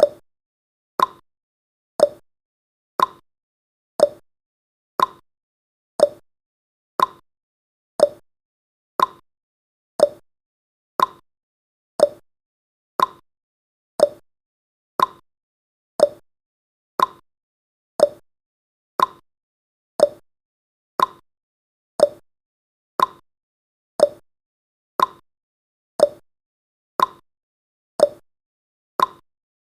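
Countdown timer's clock tick-tock sound effect: one sharp click every second, alternating between a higher tick and a lower tock.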